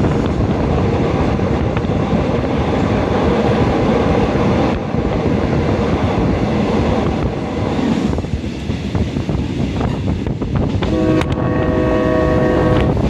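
Train running along the rails with a steady rumble, then about eleven seconds in a train horn sounds a held chord of several notes to the end, with a brief break near the end.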